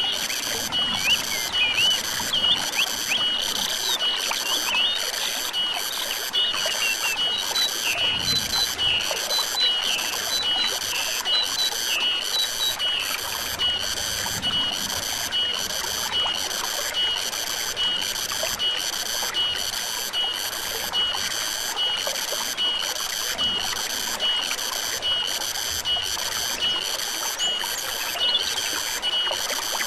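Stream water trickling steadily. Over it, a pulsing high call from a forest animal repeats about once a second, with short bird chirps in the first half.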